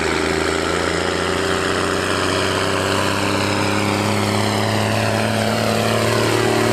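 New Holland T6030 tractor's six-cylinder diesel running through an open, straight steel exhaust pipe, working under steady load. Its pitch eases slightly lower over the second half.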